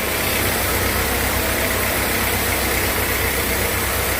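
Sawmill machinery running steadily: a constant engine-like hum at an even pitch, with no change.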